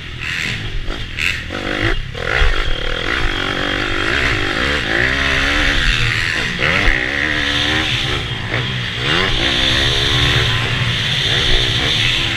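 Bucci F15 pit bike engine revving up and dropping back again and again as it is ridden hard around a motocross track, with wind rushing over an onboard camera. A few sharp knocks and clatters come in the first couple of seconds.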